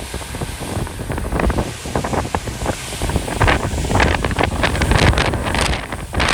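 Strong, gusty Santa Ana wind buffeting the microphone: a continuous low rumble with many short crackles, picking up from about three seconds in.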